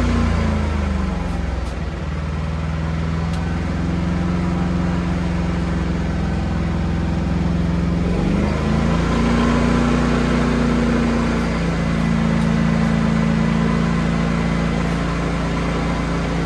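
An engine or motor running steadily; its pitch drops about two seconds in and rises again a little past the middle.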